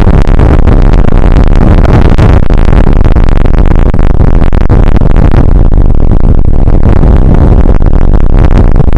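Rain beating on an outdoor weather camera's microphone: a continuous, very loud, distorted rush with dense crackling, the microphone overloaded.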